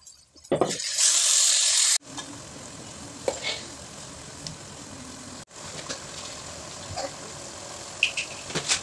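Chopped onion and tomato frying in hot oil in a steel pot: a loud burst of sizzling about a second in, then a steady sizzle, with a few clinks of a steel spoon against the pot near the end.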